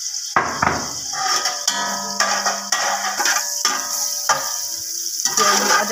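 Ginger-garlic paste sizzling in hot vanaspati ghee, with a metal spoon scraping and knocking against the metal pot several times, the pot ringing briefly in the middle.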